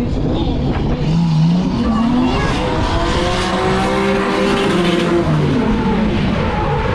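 Drift car engine revving up and down in repeated swells, with tyre noise from sliding; the noise is strongest around the middle.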